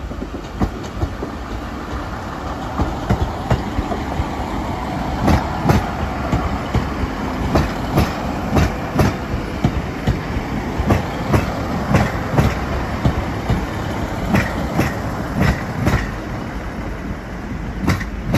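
Class 150 Sprinter diesel multiple unit passing slowly over low rumbling engines, its wheels clicking over rail joints and points in a run of sharp clicks, about two a second, from about five seconds in.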